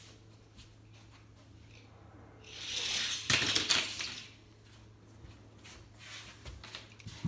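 Die-cast toy car rolling fast down a plastic track, a rushing rattle that builds about two and a half seconds in, then a cluster of sharp clattering knocks as it leaves the jump and hits down, dying away within about two seconds.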